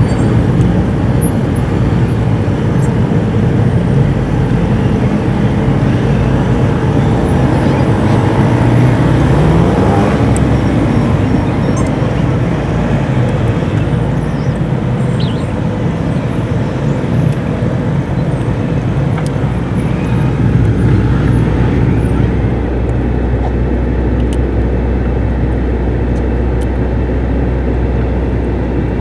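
Truck engine running while driving in city traffic, with road noise. The engine pitch rises about nine seconds in as it accelerates, and later settles into a low, steady drone.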